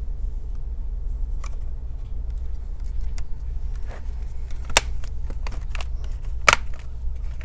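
Sharp clicks and light handling noise from a laptop's plastic case and parts being fitted together, with two loud clicks in the second half, over a steady low hum.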